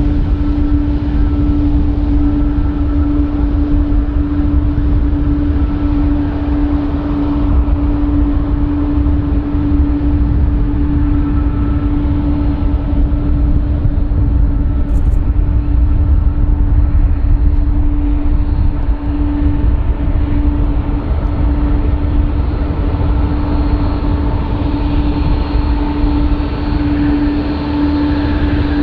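Jet airliner engines running steadily: a constant hum over a heavy low rumble, with no change in pitch.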